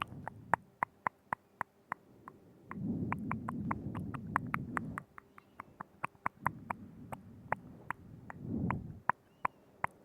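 ASMR mouth sounds right up against a binaural microphone: a quick, irregular run of wet tongue and lip clicks, about three or four a second. Between them come a few stretches of soft, low, moist noise lasting a second or two.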